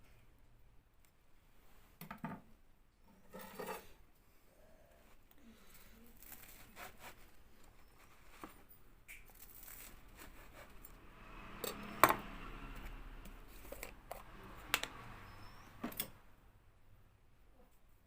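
Close handling noises of food being torn and handled: scattered clicks, scrapes and tearing or rustling sounds, with a loud sharp click about twelve seconds in.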